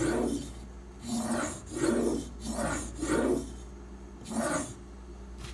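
A stainless steak knife's edge, held in a clamp guide, stroked across a sharpening stone: about seven short scraping strokes, with a longer pause before the last.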